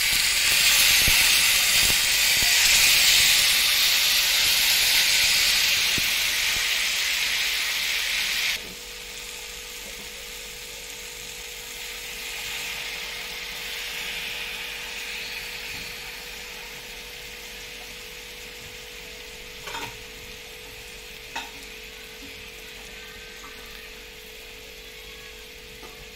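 Mustard masala paste sizzling as it is poured over fried fish on a hot tawa, the water in the paste boiling off. The sizzle is loud at first and drops suddenly to a quieter, steady sizzle about eight seconds in, with a faint steady tone underneath and two light clicks later on.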